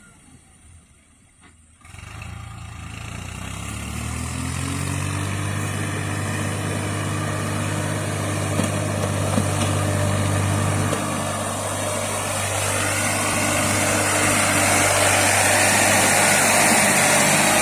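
Swaraj tractor's diesel engine starting to sound about two seconds in. Its pitch rises over the next few seconds, then it runs steadily and grows louder and rougher toward the end.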